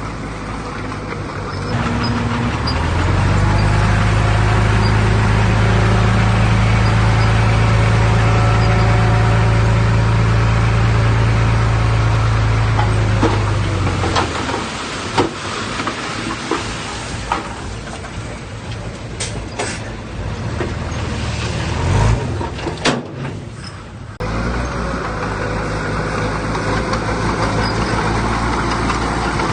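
Heavy diesel engine of earthmoving machinery running loud and steady under load, then giving way to a noisier stretch with scattered knocks and clanks, before the engine drone picks up again near the end.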